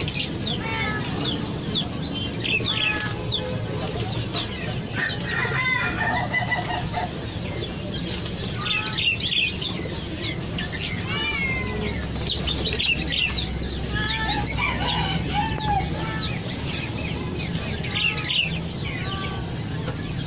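Many caged chickens clucking and calling, with many short, overlapping calls and chirps over a steady low background din.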